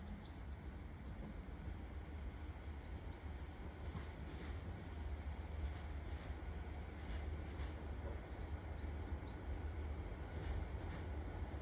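Small birds chirping, one repeating a short high call about every three seconds, over a low rumble that grows slowly louder as a train approaches in the distance.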